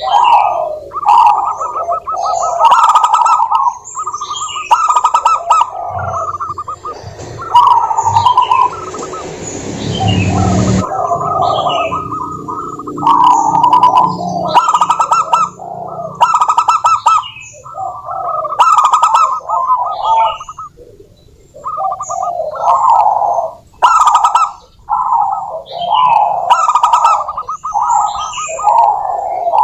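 Zebra doves cooing: rapid staccato rolling calls repeated phrase after phrase with short gaps. A noisy hiss with a low hum runs under the calls from about six to eleven seconds in.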